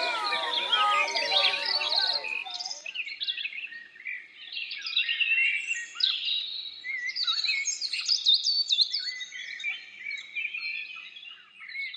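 A crowd of voices fades out over the first two seconds or so, leaving several birds singing: many quick chirps and trills overlapping until the end.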